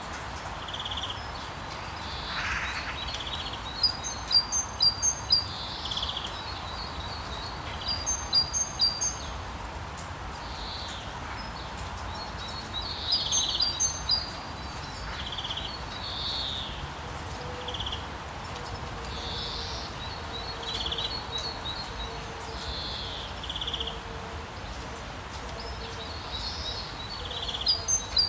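Rainforest ambience: birds call over a steady hiss of rain. One bird gives quick runs of high chirps every few seconds, and others answer with short, lower single calls.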